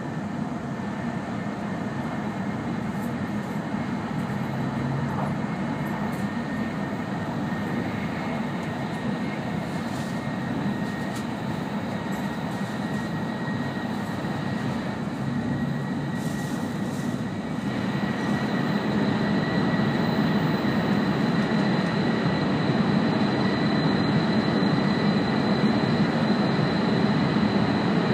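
Cabin noise of an E5-series Shinkansen running at speed: a steady rumble and rushing hiss with a thin high whine. It grows louder about two-thirds of the way through, where a second, higher whine joins in.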